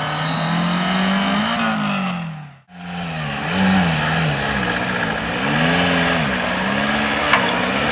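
Off-road 4x4's engine revving up and down again and again, its pitch swelling and falling about once a second, with a high thin whine over it for about a second near the start. The sound cuts out for a moment about two and a half seconds in, then the revving carries on.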